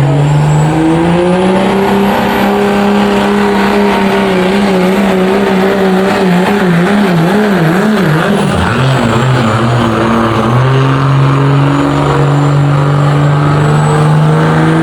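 A pulling truck's engine at full throttle, dragging the sled. Its revs climb over the first two seconds and hold high, surge up and down about six to eight seconds in, drop sharply just after that, then hold lower and creep up again. A faint high whistle rises and falls above it.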